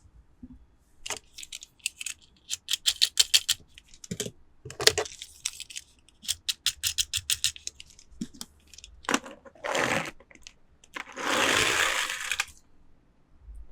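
Toy unboxing handling noises: runs of quick sharp clicks, then a short rustle and a longer tearing or crinkling of packaging about two-thirds of the way in.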